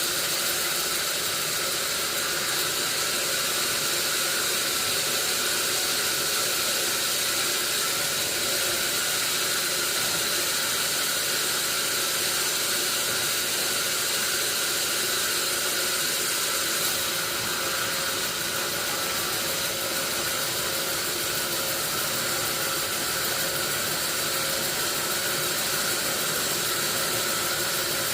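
A steady, even hiss with a few faint steady tones under it, unchanging throughout.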